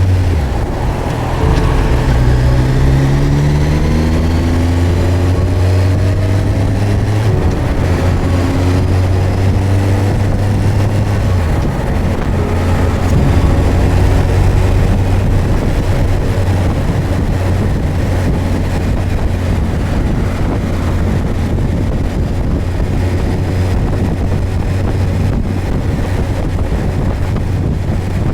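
Suzuki GSX1250FA motorcycle's inline-four engine accelerating, its pitch rising over the first several seconds, then settling into steady running under heavy wind noise on the microphone.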